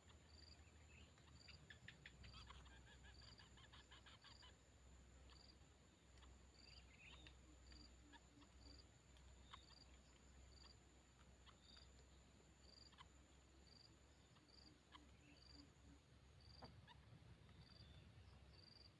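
Near silence: faint outdoor ambience, with a soft high chirp repeating about once a second over a steady high whine, and a brief patch of rapid faint ticking a couple of seconds in.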